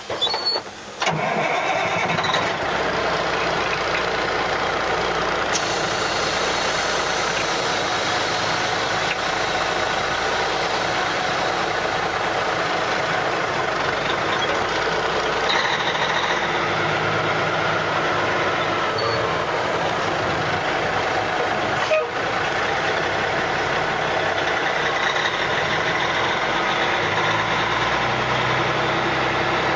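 1991 Western Star dump truck's Caterpillar 3406B inline-six diesel engine starting about a second in after a brief crank, then running steadily.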